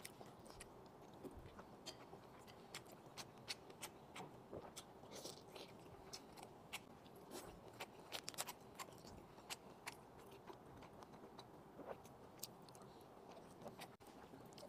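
Faint close-up chewing of a shrimp wonton: many soft, wet mouth clicks scattered through the chewing.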